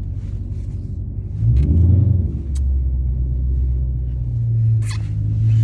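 Car engine running with a deep, low rumble. About a second and a half in, a louder, deeper engine note comes in and holds steady, with a couple of brief clicks over it.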